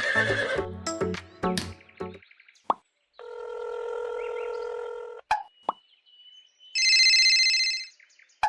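Background music that stops about two seconds in, followed by a string of electronic sound effects: a pop, a steady buzzing tone lasting about two seconds, a couple of clicks, then a loud high beeping tone for about a second near the end.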